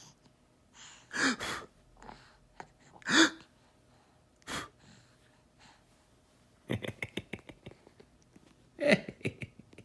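Baby's excited breathy gasps and squeals, a few separate ones, then a quick run of short panting huffs about seven seconds in and another gasp near the end.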